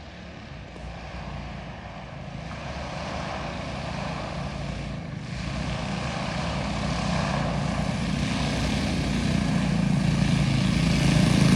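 Small minibike engine running with a steady hum, growing steadily louder throughout.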